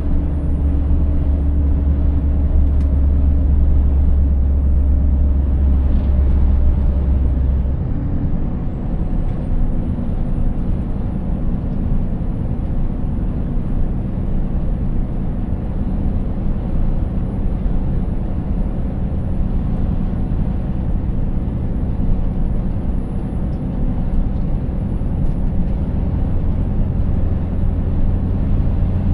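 Scania 590S truck's 16-litre V8 diesel running on the road, with steady tyre and road noise. Its deep low drone drops away about eight seconds in and comes back near the end.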